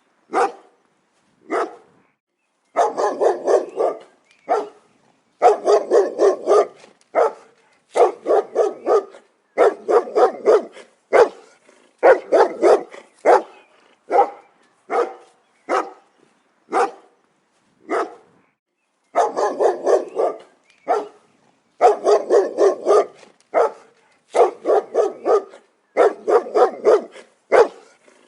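A dog barking repeatedly: single barks and quick runs of several, with short silent pauses between the runs.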